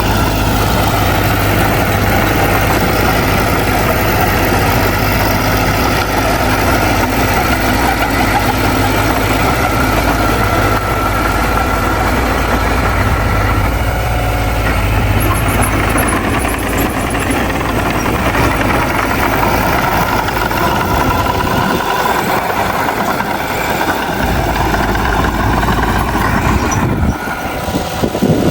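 Heavy diesel engine of earthmoving machinery running steadily with a deep hum. The deepest part of the sound drops away for a few seconds about three-quarters of the way through, then returns, and the sound becomes more uneven near the end.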